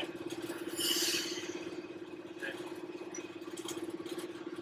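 Class 31 diesel-electric locomotive's English Electric 12-cylinder engine running steadily with power shut off, heard from the cab, a fast even pulse under a steady hum. About a second in there is a short hiss of air.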